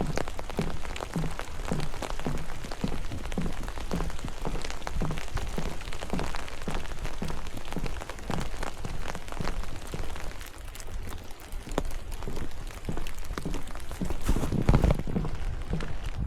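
Steady rain pattering, with many sharp clicks of single drops, over a walker's footsteps at about two steps a second. The steps thin out for a moment about two thirds of the way through, and a heavier thud comes near the end.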